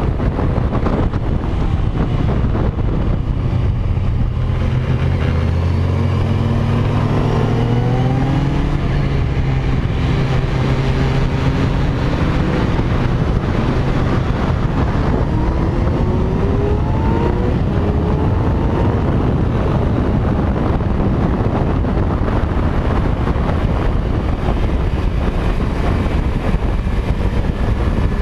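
Kawasaki Z1000's inline-four engine under hard acceleration, its note rising several times as it pulls through the gears, over a steady rush of wind.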